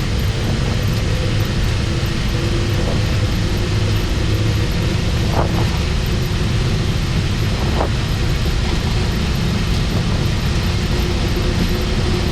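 Boeing 737-800 on its takeoff roll at takeoff thrust, heard from the flight deck: a steady, loud rumble and rush from its CFM56 engines, the airflow and the wheels on the runway as it accelerates towards V1.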